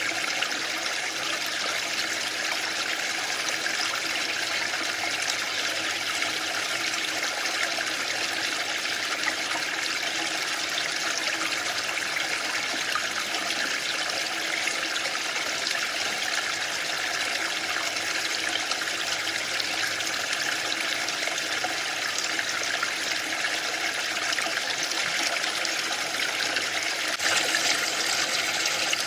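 Waterfall: a steady, even rush of falling water, getting a little louder and brighter near the end.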